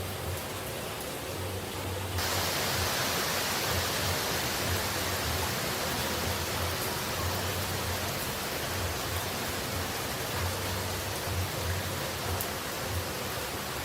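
Steady rush of falling water, an even hiss without any tone; about two seconds in it jumps suddenly louder and brighter, as at a splice between two recordings.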